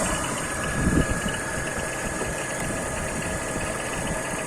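BMW E39 engine idling steadily on petrol, fed by a newly fitted LADA 2110 fuel pump that holds the normal 3.5 bar of fuel pressure, so the engine runs normally. There is a brief louder moment about a second in.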